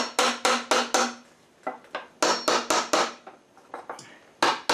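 Hammer blows knocking the ash legs' through tenons out of a pine Windsor chair seat: a quick run of sharp knocks, about three a second, each with a brief ring, pausing briefly twice.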